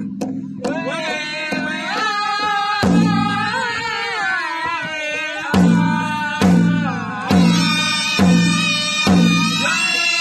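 Powwow drum group singing in high voices over a big hand drum beaten in a steady pulse. From about halfway the drum strikes come louder, roughly one a second.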